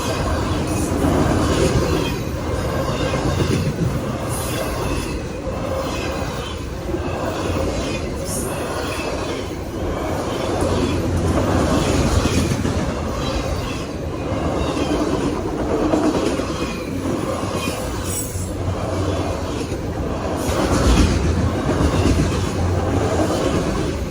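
CSX autorack freight cars rolling past in a continuous rumble of wheels on rail, with clicks from the rail joints and brief high-pitched wheel squeals a few times.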